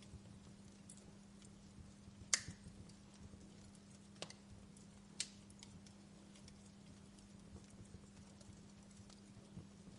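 Wood fire crackling in a fireplace: faint scattered pops and ticks, with a sharp pop about two seconds in and smaller ones around four and five seconds, over a steady low hum.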